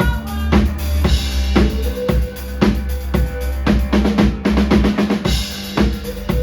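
Live band playing at full volume, driven by a drum kit with steady bass drum and snare hits over sustained low bass notes.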